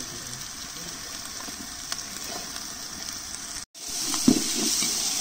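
Food frying in hot oil in a cooking pot, a steady sizzle. It breaks off sharply about three and a half seconds in and comes back louder, with a brief knock soon after.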